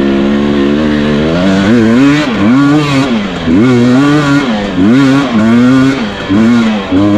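Two-stroke enduro dirt bike engine holding steady at first, then revved up and let back down about six times in quick succession, its pitch rising and falling with each throttle blip.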